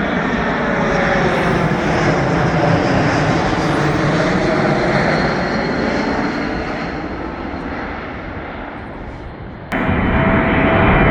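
Jet airliner on final approach passing low overhead, its engine noise sliding down in pitch and slowly fading. Near the end the sound cuts off abruptly to another loud, steady noise with a held tone.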